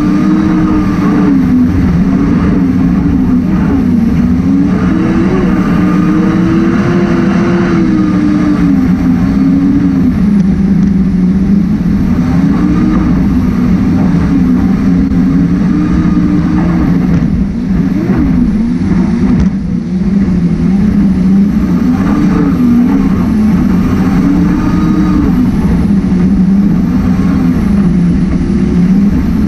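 Racing jet boat's engine running hard at high revs, its pitch rising and falling as the throttle is worked, with two brief dips in loudness in the second half.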